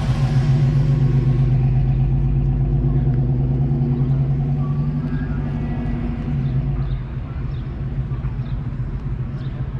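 A car engine running steadily with a low drone, easing off slightly about seven seconds in.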